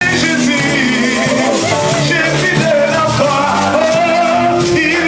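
Worship song: voices singing over instrumental accompaniment, coming in abruptly at full level.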